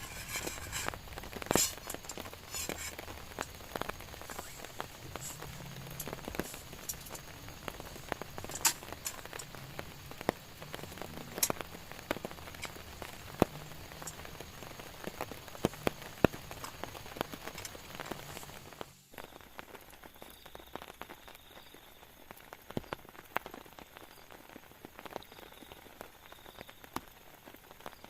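Rain pattering, with many sharp single drop hits over a steady hiss. About two-thirds of the way through it drops suddenly to quieter, sparser dripping.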